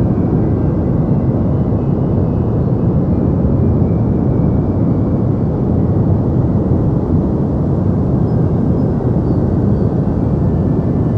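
Deep noise for sleep: a steady, unchanging rushing hum weighted heavily toward the bass, darker than true white noise.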